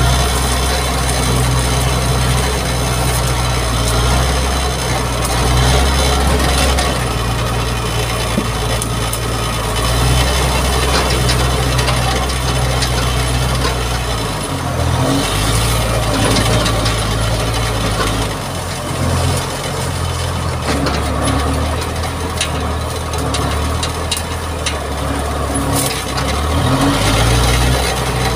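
Mitsubishi MG330 motor grader's diesel engine running under load, its note shifting up and down, with a rough scraping of the blade through earth and gravel.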